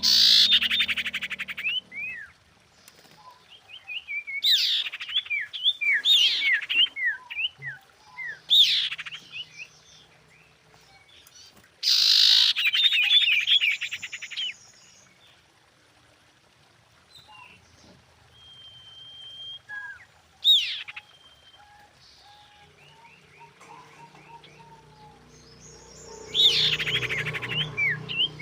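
Female common iora calling in separate bursts of rapid, steeply sweeping chirps with quiet gaps between. In the middle lull there is one short held whistle and a single sharp swept note. A low hum rises near the end.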